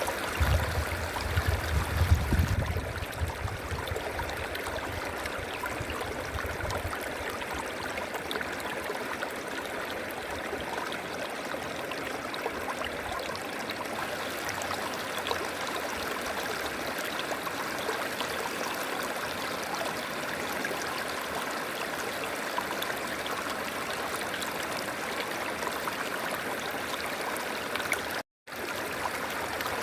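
A river flowing with a steady rush of water. A low rumble lies under it for the first few seconds, and the sound cuts out for a moment near the end.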